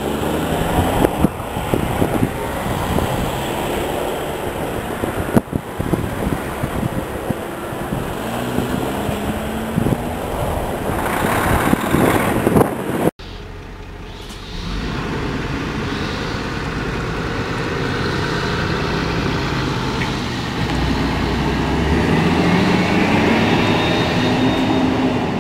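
A train runs past a railway level crossing, with a clatter of irregular knocks. After a cut, a bus's engine runs steadily as it pulls away, its pitch rising and then easing off near the end.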